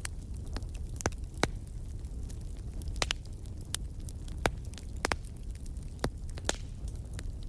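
Wood fire crackling: a steady low rumble of burning with irregular sharp pops and snaps, a dozen or so, loudest about a second and a half in and again around three, four and a half, and five seconds in.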